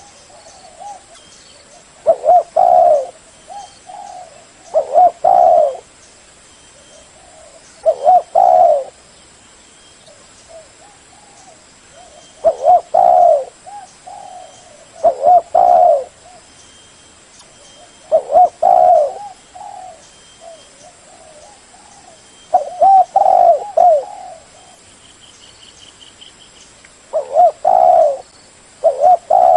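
Spotted dove cooing: a phrase of several low coos, repeated about every two to three seconds.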